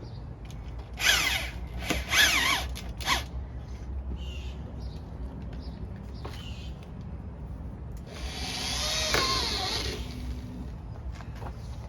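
Power drill running in three short bursts in the first few seconds, then one longer run of about two seconds near the end, its pitch falling as it slows, over a low steady hum.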